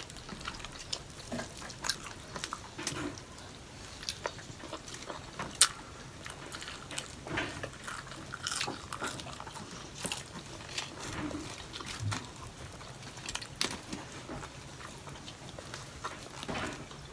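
Mukbang eating sounds: biting and chewing food, with irregular short, sharp clicks throughout.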